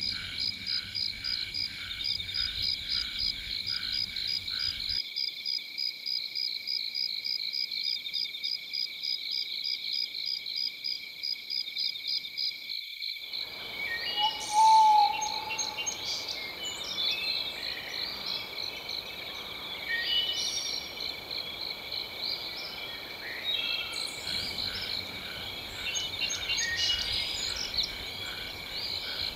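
Layered nature soundscape of frogs and insects: a fast, evenly pulsing frog chorus over a steady high insect drone. About 13 s in, a rushing of water starts abruptly, with scattered bird chirps and a short loud whistled call about 15 s in.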